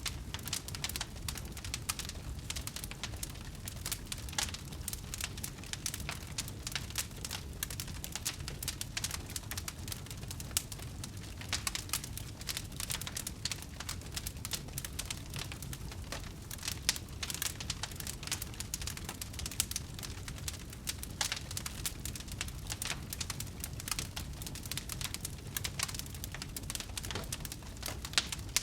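Wood fire crackling steadily: dense, irregular snaps and pops from burning logs over a low, steady rumble of flame.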